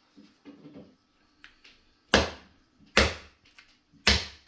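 Lobster tail shell being cut open in the kitchen: three sharp cracking strikes about a second apart, after some quieter handling.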